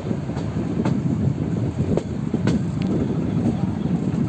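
Metre-gauge passenger train running along the line, heard from a coach: a steady rumble of wheels on track, with a few sharp irregular clicks from the wheels and rail joints, and wind on the microphone.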